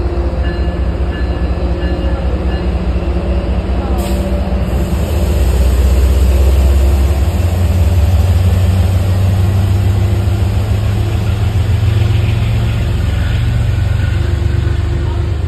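MBTA commuter rail train passing at the platform: an MPI HSP46 diesel locomotive's engine runs with a deep, steady rumble and engine hum, and its coaches roll by. The rumble is loudest about halfway through.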